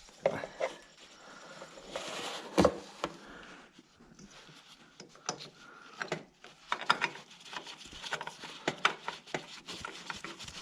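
Hands spinning a new oil filter onto the mower's Kawasaki engine by hand: irregular rubbing with small clicks and knocks, and one sharper knock about two and a half seconds in.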